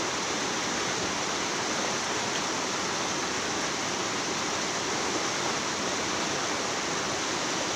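Steady rush of a shallow river's flowing water, an even hiss that holds level throughout.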